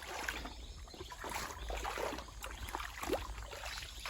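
Stream water flowing and babbling: a steady rushing with many small gurgles.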